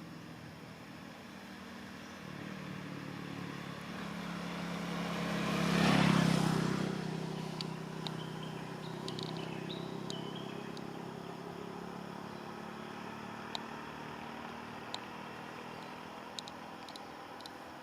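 A motor vehicle driving past, growing louder to a peak about six seconds in and then fading, with a low engine hum lingering afterwards.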